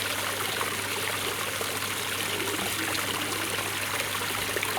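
Steady water noise, an even trickling hiss speckled with small ticks, like running water or falling rain.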